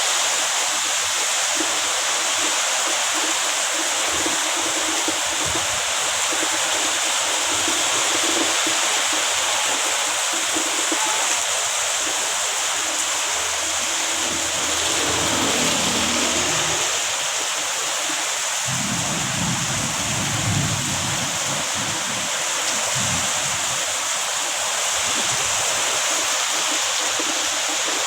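Heavy rain pouring steadily, a dense even hiss. A low rumble swells about halfway through, and a stronger one comes in about two-thirds of the way in and lasts several seconds.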